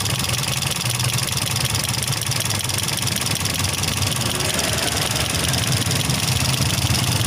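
Toyota Vios 2NZ-FE four-cylinder petrol engine idling roughly during a coil-by-coil misfire test. Cylinder 4, whose unplugged coil makes no difference to the idle, is taken to be misfiring.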